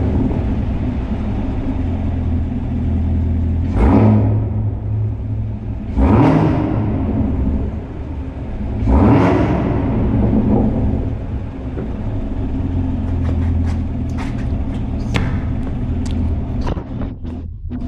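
Chevrolet Camaro ZL1's supercharged 6.2-litre V8 idling with a deep rumble through its exhaust in sport mode, blipped three times in quick revs about four, six and nine seconds in, echoing in a parking garage. A run of short clicks follows near the end.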